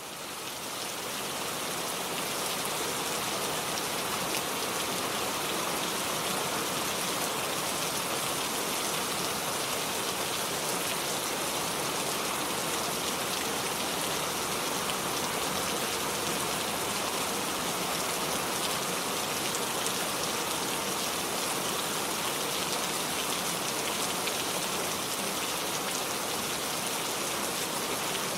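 Steady rain falling: an even hiss of many drops, with no single sound standing out.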